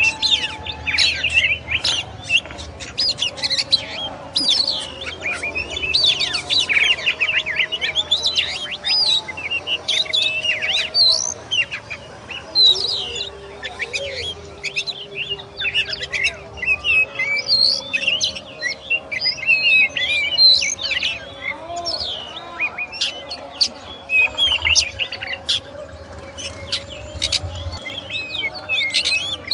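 Oriental magpie-robin (kacer) singing a long, continuous, varied song of rapid chirps, whistles and sliding notes, with hardly a pause.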